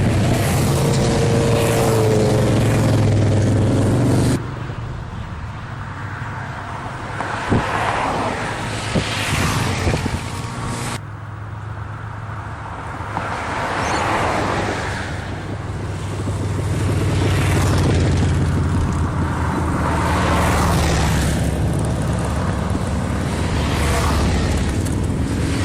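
Motorcycle engines rumbling as a group of bikes rides past, swelling and fading as each passes. The sound changes abruptly twice, about four seconds in and again around eleven seconds.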